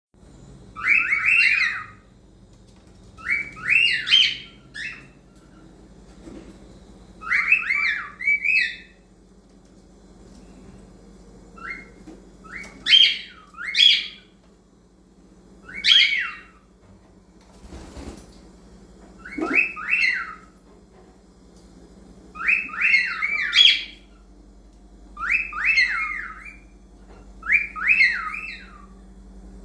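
Male cockatiel singing: a run of warbling, whistled phrases, each about a second long with quick rising and falling glides, repeated every two to three seconds.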